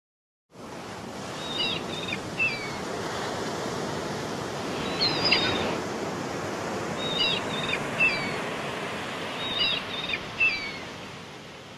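A steady wash of surf with a small bird singing a short chirping phrase four times, every two to three seconds. It begins abruptly about half a second in.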